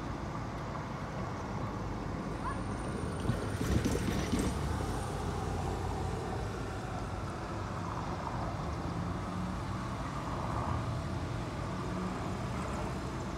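Low, steady rumble of a distant approaching Union Pacific intermodal freight train, with a brief cluster of knocks about four seconds in.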